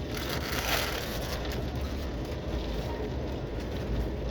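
Passenger train running, heard from inside the coach: a steady low rumble with a hiss of noise over it.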